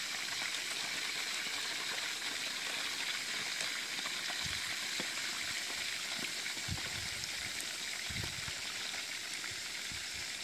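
Chicken pieces frying in oil in a pan, a steady sizzle, with a few soft low thumps in the middle.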